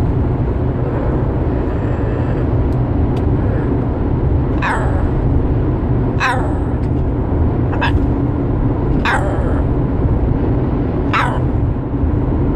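Pet bird giving five sharp falling whistles, each dropping from very high to middle pitch in about half a second, spaced a second or two apart, over a steady low rumble.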